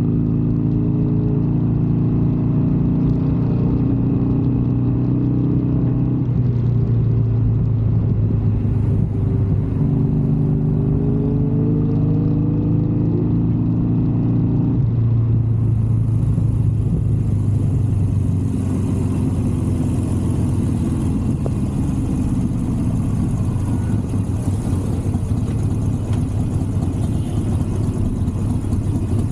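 Superbike engines running steadily, with one rev rising about a third of the way in. The engine note changes abruptly twice, about a fifth and half of the way through.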